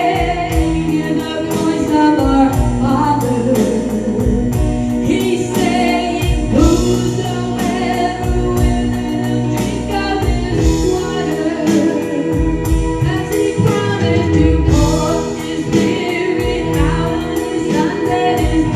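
Gospel worship song performed live: several voices singing together over a band, with a steady drum beat.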